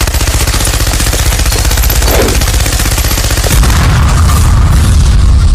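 Loud, rapid rattling sound effect like machine-gun fire, with a heavy low rumble that grows louder about three and a half seconds in.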